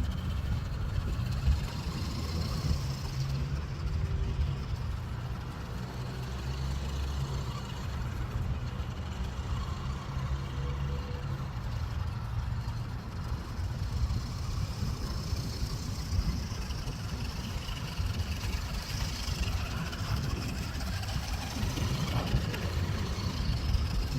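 Small electric RC 6x6 truck driving, its motor and gears whining with a continuous low rumble that shifts in pitch as it goes.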